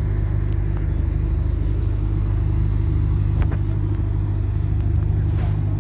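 Steady low hum of a running engine, unchanging in pitch and level, with a couple of faint clicks.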